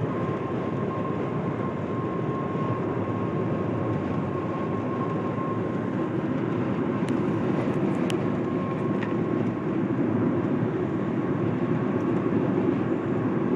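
Steady road and engine noise heard inside a moving car, with a faint steady whine in the first half. The noise grows a little louder in the second half.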